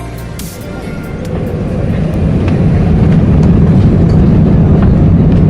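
Airbus A380 cabin noise: a low rumble that grows louder over the first two to three seconds and then holds steady and loud, with a few faint rattles.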